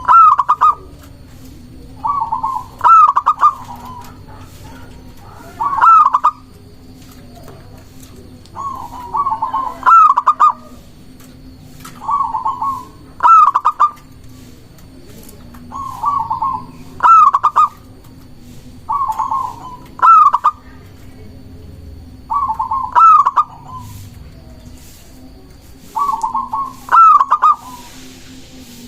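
Zebra dove (perkutut) cooing its repeated song, about ten phrases spaced roughly three seconds apart. Each phrase is a short run of notes, softer at first and loudest at the end.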